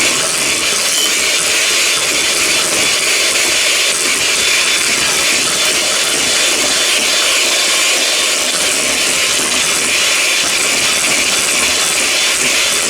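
Electric mixer running steadily on medium speed, beating banana cake batter made from box mix, milk and eggs.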